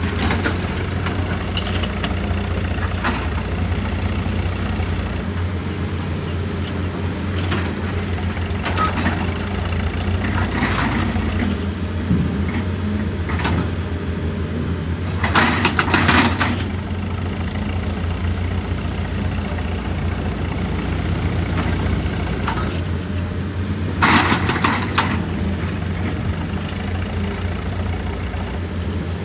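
Heavy machinery engine running steadily with a low drone, with two short louder bursts of noise, one about halfway through and another about eight seconds later.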